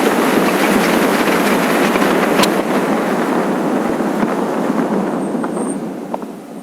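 Steady rushing wind and road noise from a motorcycle on the move, with a few sharp clicks, fading toward the end.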